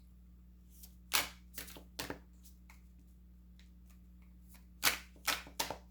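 Tarot cards being handled and shuffled: a few short slaps and snaps of the cards, in a cluster about a second in and another near the end.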